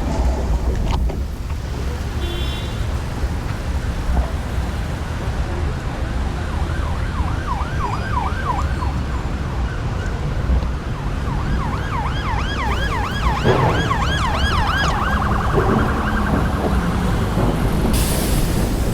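Emergency vehicle siren in a rapid yelp, its pitch swooping up and down about three times a second, in two spells, the second longer and louder. Beneath it runs a steady low rumble.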